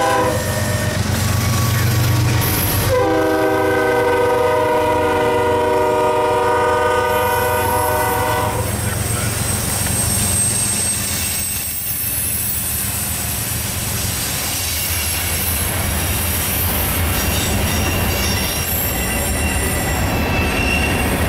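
Freight train passing close by: the CSX diesel locomotives rumble past while sounding the multi-note air horn, a short note at the start and then one long blast of about five seconds. Covered hopper cars then roll by with wheel clatter, and a wheel squeal comes in near the end.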